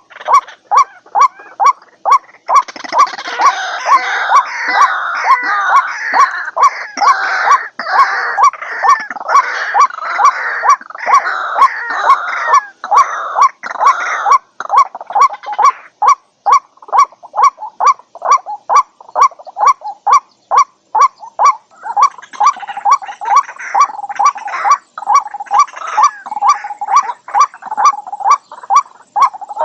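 White-breasted waterhen calling: one note repeated evenly about twice a second, joined for long stretches by a chorus of overlapping harsher, croaking calls.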